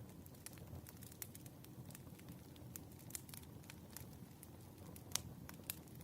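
Firewood burning: a wood fire crackling, with a low steady rumble of flames under irregular sharp pops, the loudest one a little after five seconds in.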